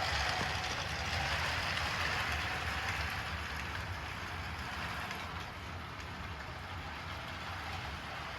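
Kusan Atomic Train toy locomotive running on DC power, its small electric motor whirring and its wheels rattling along the track as it pulls cars. The sound is loudest at first and slowly gets quieter.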